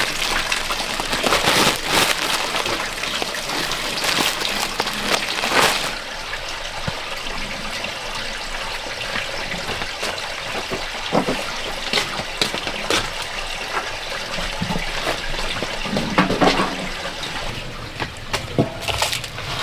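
Water running and splashing, heavier for the first few seconds and then lighter, with scattered small knocks and clinks.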